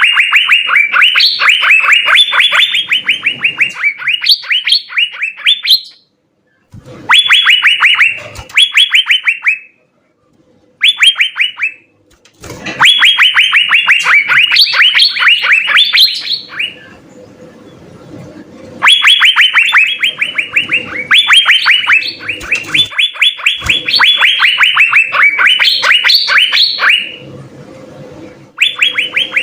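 Asian fairy-bluebird singing: fast runs of short, downward-sweeping notes, each run lasting a few seconds, with brief pauses between runs.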